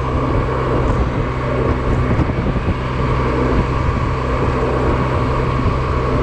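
Honda Silver Wing maxi-scooter engine running at a steady cruising speed, with wind and road noise rushing over the camera microphone.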